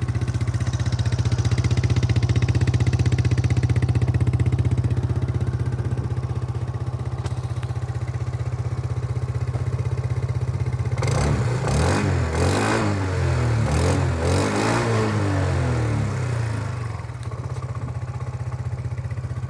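Yamaha Zuma 125 scooter's single-cylinder four-stroke engine idling steadily through an aftermarket NCY muffler. About halfway through it is revved in a series of throttle blips for several seconds, then drops back to idle.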